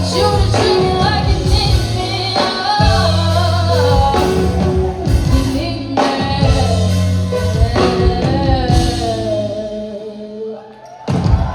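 A live band and singer performing a song with a strong bass line. The music dies down about ten seconds in, and a sudden loud sound comes in just before the end.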